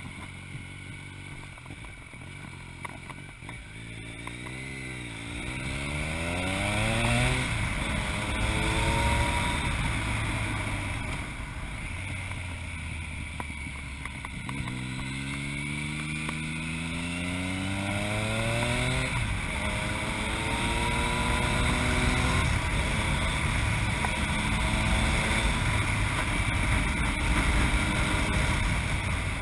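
Yamaha MT-09's three-cylinder engine through an Akrapovic exhaust, accelerating hard through the gears. The engine note climbs, dips at each upshift and climbs again, in two hard pulls, then runs nearly steady, over wind rush.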